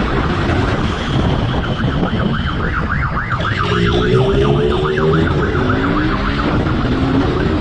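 Police siren yelping, rising and falling fast at about four cycles a second, loudest through the middle, over steady engine and road noise.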